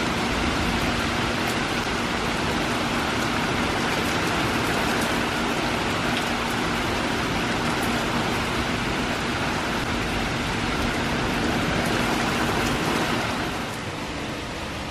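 Steady rain falling, a dense even hiss; it becomes somewhat quieter near the end.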